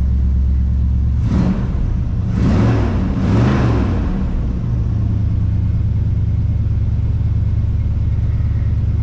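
Squarebody ramp truck's engine running, blipped three times in quick succession, rising and falling in pitch, starting about a second in, then settling back to a steady idle.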